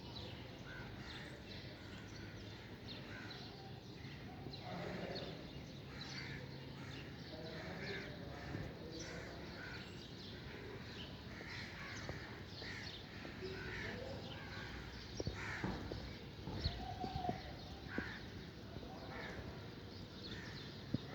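Many birds calling in short, repeated calls over a steady background noise, with a few sharp clicks about three-quarters of the way through.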